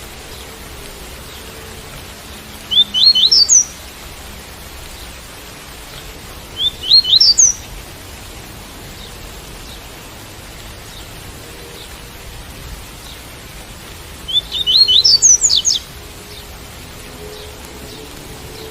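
Double-collared seedeater (coleiro) singing its tui-tui song in three short phrases of quick rising notes, the last one longest, over a steady hiss of rain.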